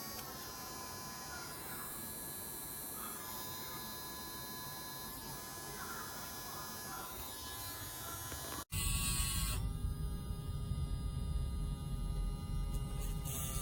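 Small motor of a Casfuy two-speed electric dog nail grinder running with a steady whine. About two-thirds of the way through it cuts out for an instant and comes back louder, with a low rumble under the whine.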